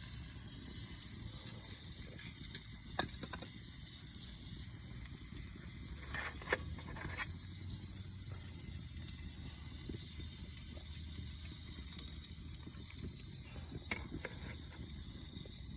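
Sausages sizzling softly on a homemade iron griddle over a campfire, a steady high hiss with a few sharp pops, the loudest about halfway through.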